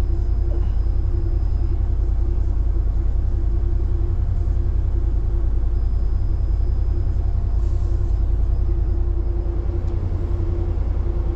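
A vehicle's engine idling: a steady low rumble with a constant hum over it.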